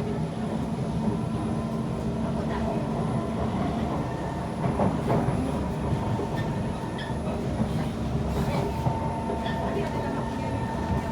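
Kawasaki C151 MRT train heard from inside the car while running between stations: a steady rumble of wheels on rail with several steady motor tones and a few sharp clicks from the track.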